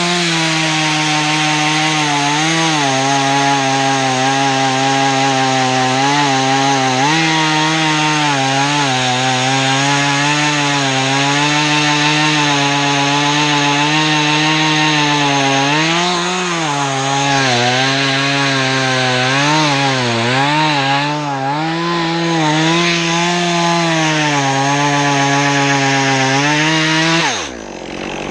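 Stihl chainsaw running at full throttle and cutting into cedar. Its pitch dips again and again as the chain bogs down in the wood and recovers. The throttle is let off about a second before the end.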